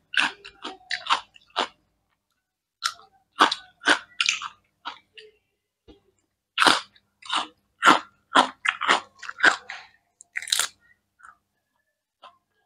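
Close-miked crunchy chewing and biting of cucumber slices, in bursts of crisp crunches separated by short silent pauses.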